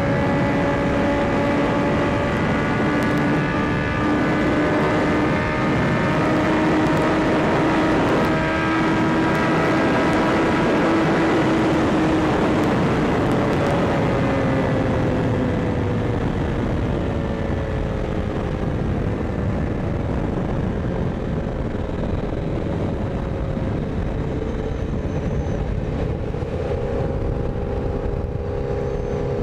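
Honda CBR1000RR Fireblade's inline-four engine, with a Yoshimura exhaust, running at a steady highway cruise. About halfway through, the engine note slowly falls in pitch as the bike rolls off and slows, then holds lower. Wind rush on the microphone from riding at speed runs throughout.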